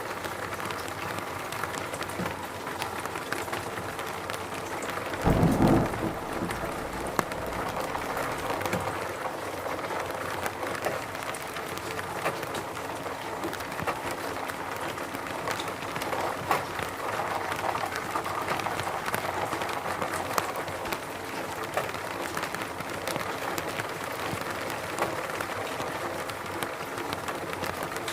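Steady rain falling, with the ticks of individual drops striking surfaces. About five seconds in comes a short, loud, low rumble of thunder.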